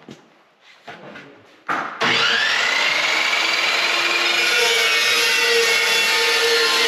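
A few light handling clicks, then about two seconds in an Evolution chop saw starts abruptly and cuts through steel stock, running loud and steady with a high whine that rises as the blade comes up to speed.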